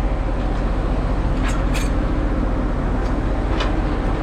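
Semi truck's diesel engine running steadily with a low rumble, and a few short sharp clicks about one and a half seconds in, just after, and again near the end.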